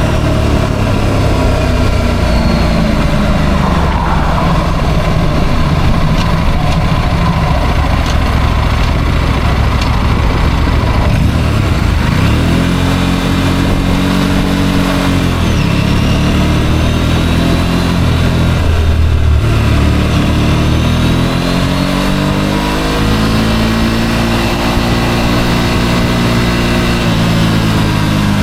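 Motorcycle engine under way, its pitch climbing and dropping twice as the rider accelerates and eases off, over steady wind and road noise.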